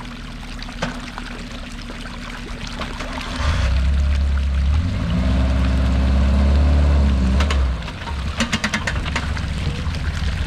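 Off-road 4x4 vehicle's engine revving under load on a trail. It grows louder about a third of the way in, holds with small rises and falls in pitch, then drops back, followed by a quick run of sharp clicks and knocks.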